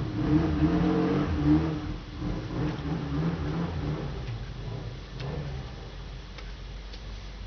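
An engine revving, its pitch rising and falling, then dying away after about four seconds.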